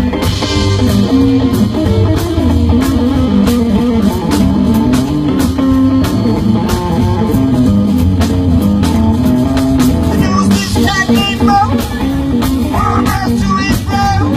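Rockabilly band playing live, an instrumental stretch between verses: guitar over a bass line and a steady drum beat, with the guitar notes more prominent in the last few seconds.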